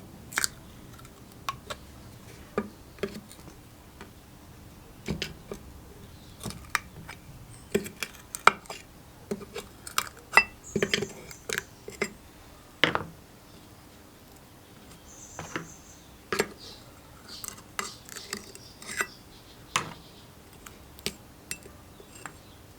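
Hand tools and small metal parts clicking and clinking as an engine is worked on: irregular sharp knocks, a few a second at the busiest, thickest in the middle.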